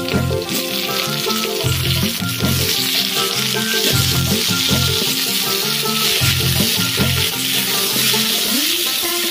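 Hot oil sizzling steadily in an iron wok as potato wedges fry, with instrumental background music over it.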